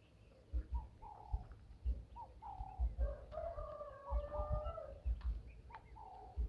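Birds calling: short cooing notes repeated about once a second, and a longer, fuller call in the middle. Dull low thumps come in at the loudest moments.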